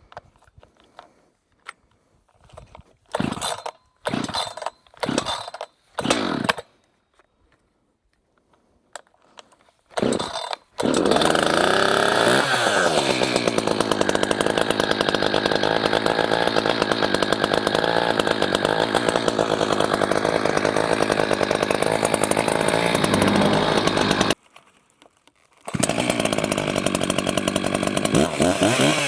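An Echo 620P two-stroke chainsaw is pull-started: four short pulls, then another about ten seconds in, when it catches. It then runs loud and steady, with the revs settling shortly after starting. Near the end it drops out for about a second, then runs again.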